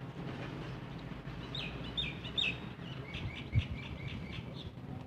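A small bird chirping a quick run of short, repeated high notes over a steady low rumble, with a single low thump about three and a half seconds in.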